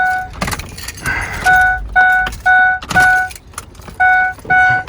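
2006 Ford E-250 van's dashboard warning chime dinging steadily, about two dings a second: the reminder that the key is still in the ignition after being turned off. Keys on the ring jingle and click against the steering column.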